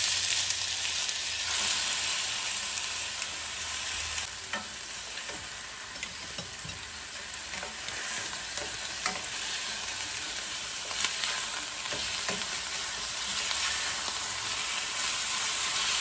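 Chicken thighs sizzling in olive oil with onion and garlic in a stainless steel pan, a steady hiss, while a wooden spoon stirs and turns them with occasional light knocks and scrapes against the pan.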